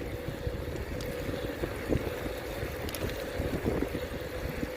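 Wind buffeting the microphone while riding a bicycle, a low rumble with a steady hum over it.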